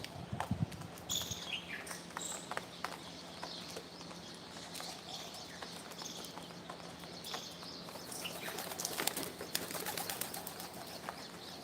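Birds flapping their wings, with short high calls falling in pitch about a second in. A denser flurry of flapping and clicks comes about three-quarters of the way through.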